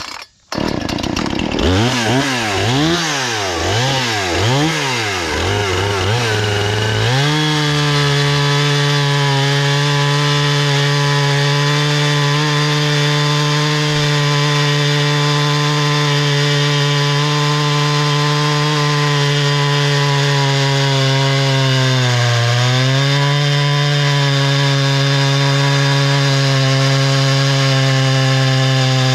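Husqvarna 460 Rancher two-stroke chainsaw revved up and down several times, then held at high revs while cutting through poplar, its pitch dipping briefly under load about two-thirds of the way through.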